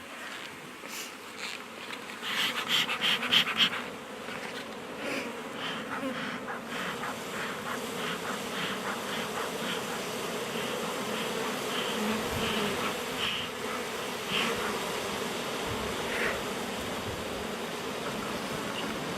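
Honey bees humming steadily around an opened hive. About two seconds in comes a short burst of scraping and clicking, the loudest part, with scattered lighter clicks afterwards as the hive's wooden parts are worked.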